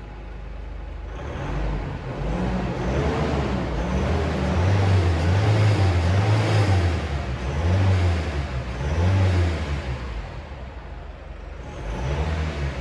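Mitsubishi L200 Triton's 2.3-litre diesel engine idling, then revved repeatedly: about half a dozen blips of the throttle, each rising and falling back, before settling to idle with one more short rev near the end.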